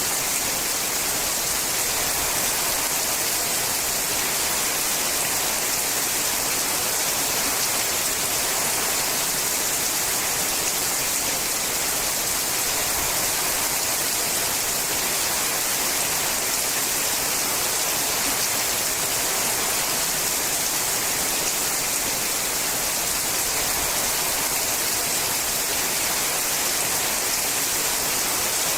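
Steady rain falling on a sheet-metal roof: a dense, even hiss of drops that neither builds nor eases.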